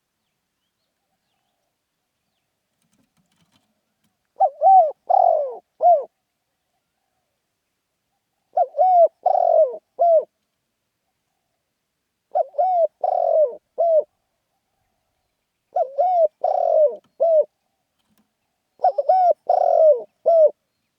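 Spotted dove cooing: five phrases after a few seconds of quiet, one about every four seconds, each a short run of three or four low, rounded coos.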